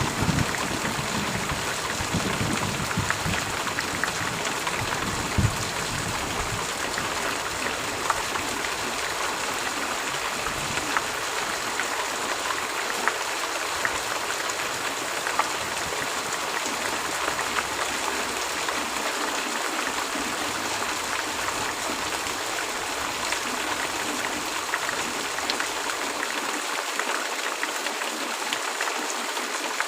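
Heavy rain falling steadily, a dense hiss of drops with many small individual ticks. A low rumble of thunder dies away over the first few seconds.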